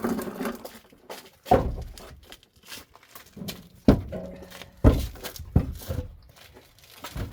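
Split firewood logs being set down on a woodpile, five dull wooden knocks spread over several seconds. The wood is still somewhat green and heavy.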